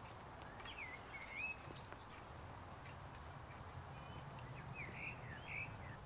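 A songbird singing short phrases of swooping whistled notes, once about half a second in and again near the end, over a steady low outdoor background hum.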